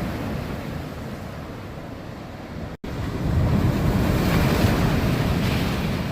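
Strong wind buffeting the microphone over the wash of sea waves breaking. The sound cuts out for an instant about three seconds in, then comes back louder with gusts.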